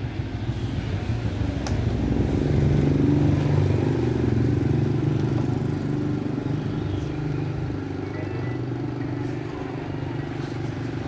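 A steady engine or motor hum, low-pitched, swelling a little about two seconds in and then settling.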